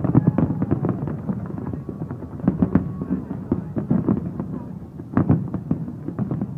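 Aerial fireworks shells bursting in quick succession, with crackling between the bangs. There is a cluster of louder bangs near the start, another about two and a half seconds in, and another about five seconds in.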